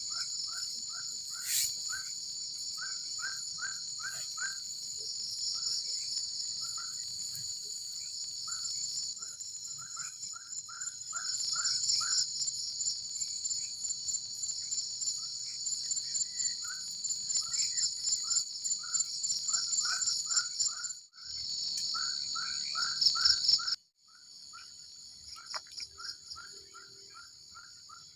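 Night forest ambience: a steady, high-pitched insect chorus, with runs of short chirping calls repeated several times a second. The sound drops out sharply twice about three-quarters of the way through and is quieter after that.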